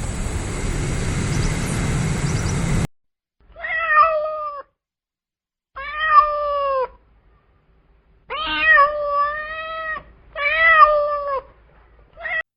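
A cat meowing: four drawn-out meows, each about a second long, with a short fifth one near the end. Before them, a steady rushing noise cuts off abruptly about three seconds in.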